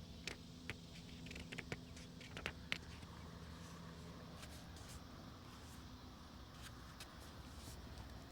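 Quiet ambience with a quick run of light rustles and small crisp clicks in the first three seconds, then a faint, even hiss for the rest.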